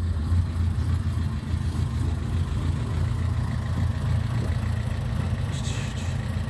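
Car engine idling steadily, a low even rumble, with a brief hiss about five and a half seconds in.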